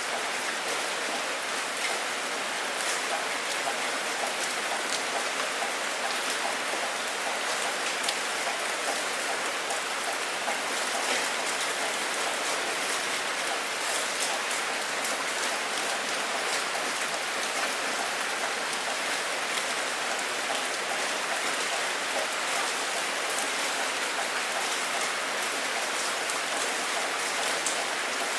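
Steady rain falling, with scattered sharp ticks of single drops hitting a surface.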